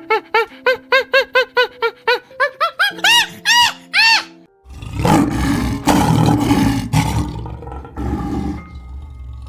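A quick run of short pitched animal calls, each rising and falling, getting louder over about four seconds. Then a big cat roars for about four seconds, over light background music.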